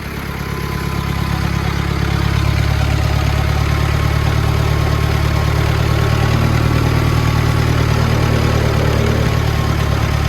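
Clark forklift's Perkins diesel engine running steadily, its drone growing louder over the first couple of seconds and then holding.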